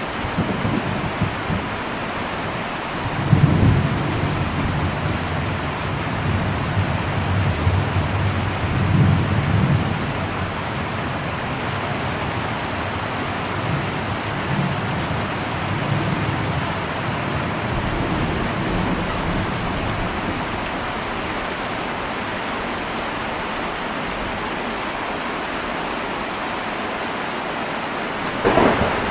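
Heavy rain drumming steadily on an old metal roof during a thunderstorm. Thunder rumbles low several times in the first half, and a sharper thunderclap breaks near the end.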